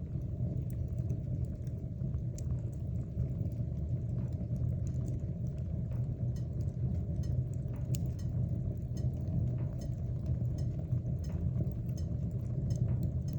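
Wood fire burning in a fireplace: a steady low rumble of the flames with frequent small crackles and pops from the burning wood.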